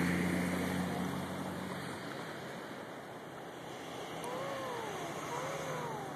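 Steady rush of floodwater, with a vehicle engine humming low that fades out about two seconds in. Near the end an animal gives two short calls that rise and then fall in pitch.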